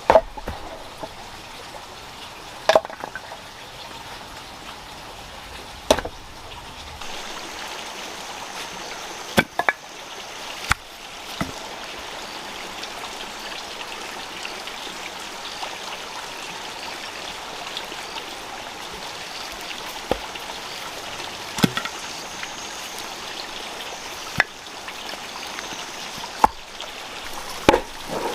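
Steady running water, like a stream, with sharp single knocks every few seconds.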